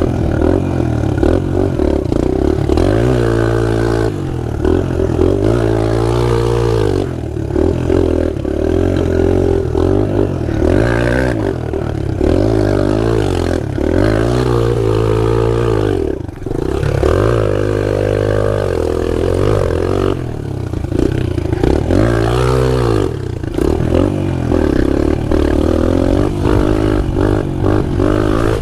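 Pit bike engine running and being ridden, revving up and dropping back about six times in a row.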